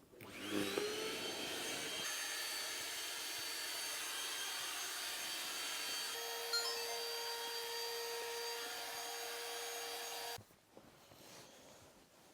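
A small electric blower motor spins up with a rising whine, runs steadily for about ten seconds, then cuts off suddenly.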